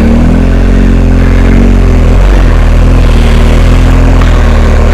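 Big twin-cylinder adventure motorcycle engine running at fairly steady revs while riding.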